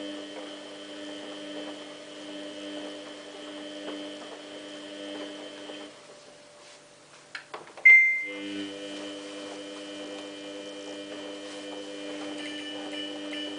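Samsung WF8804RPA washing machine humming steadily in service mode, an electric hum that stops about 6 s in and starts again after a sharp click with a short high beep near 8 s.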